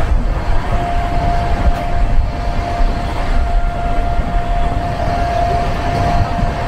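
Passenger train running at speed, heard from inside the carriage: a loud, steady rumble of wheels on track, with a steady high whine over it from about a second in.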